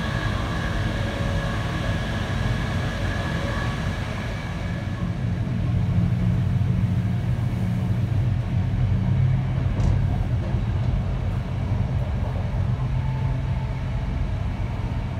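Steady low rumble of an ÖBB Nightjet passenger train running, heard from inside a carriage. Faint high whining tones sound over it for the first few seconds, then fade out.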